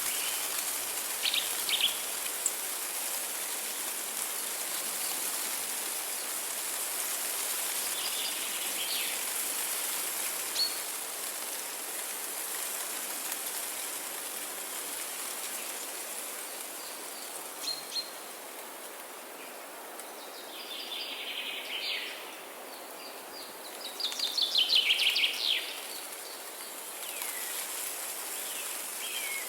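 Wild birds calling with short scattered chirps over a steady, even hiss of ambient noise; a few seconds before the end one bird gives a louder burst of rapid repeated notes.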